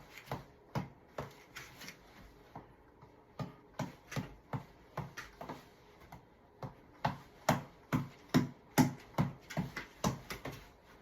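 Tap ball (reflex ball on a long elastic cord) being punched repeatedly: a quick run of sharp slaps, about two to three a second, with brief pauses around two and six seconds in, the hardest hits coming in the second half.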